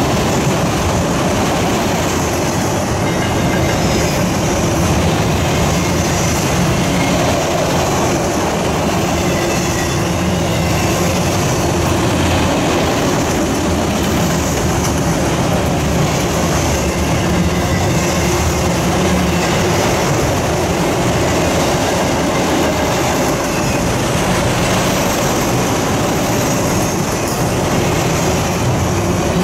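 Freight train of multilevel autorack cars rolling past close by: a steady rumble of steel wheels on the rails with clickety-clack from the wheels crossing rail joints.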